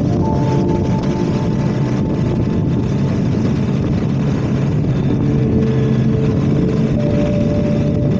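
A motorcycle running steadily on the road, its engine mixed with wind and road noise.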